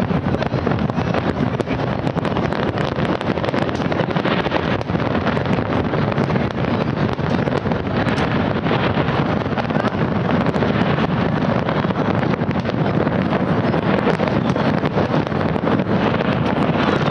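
Fireworks display going on without pause: many bursts and crackles run together into a steady rumble, with wind buffeting the microphone.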